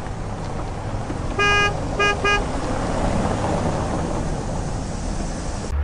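A vehicle horn honks three times: one longer toot, then two quick short ones, over a steady low rumble.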